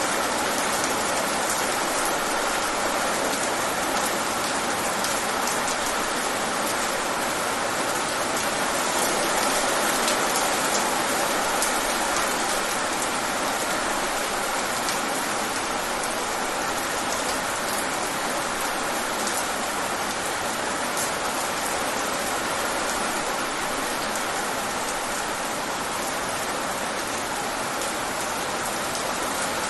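Steady rain falling, a dense even hiss with many small drop taps on a surface.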